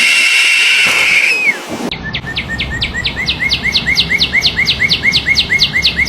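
A loud, steady high tone that slides down in pitch and stops about a second and a half in, followed by a bird calling a fast run of repeated high, downward-sweeping notes, about four a second.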